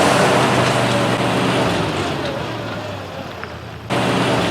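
Snowmobile engine running steadily under a rushing noise, fading slightly, then louder again after an abrupt cut near the end.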